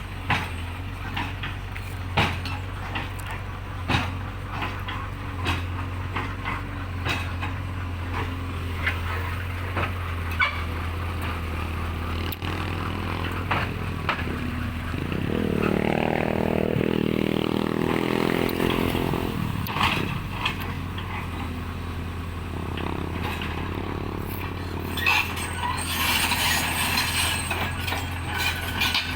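Truck engine idling steadily, with scattered knocks and thumps. A wavering pitched sound swells briefly about halfway through.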